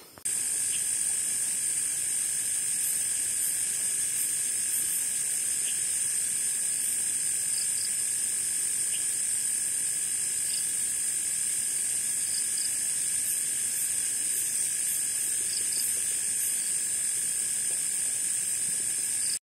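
Night forest insects: a steady high-pitched chorus with a few faint chirps scattered through it, cutting in just after the start and cutting off abruptly near the end.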